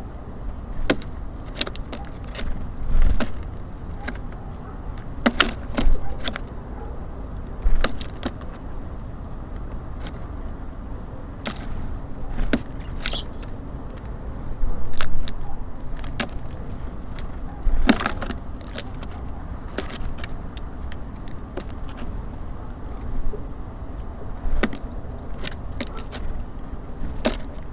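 Small birds pecking and landing at a bird feeder: irregular sharp taps and clicks, some in quick clusters, over a low steady background rumble.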